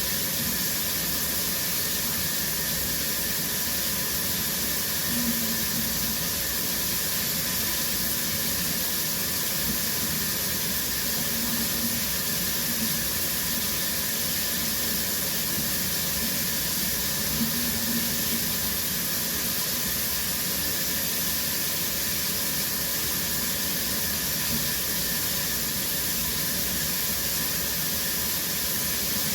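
Shower running steadily: a constant spray of water with a hiss strongest in the high end.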